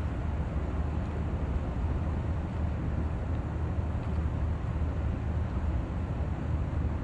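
Steady low engine rumble, even and unbroken.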